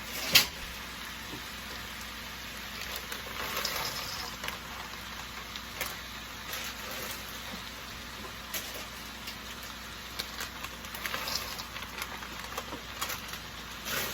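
Chicken and mixed vegetables sautéing in a pan: steady sizzling, with scattered clicks and scrapes of stirring and a sharp knock about half a second in.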